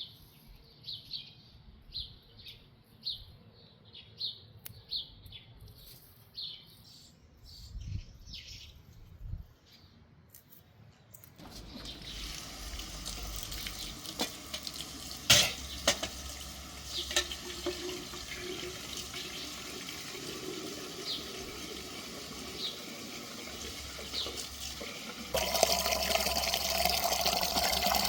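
Small birds chirping in short, repeated calls, then, about eleven seconds in, a steady rush of running water with a few clicks and clatters; the water grows louder near the end.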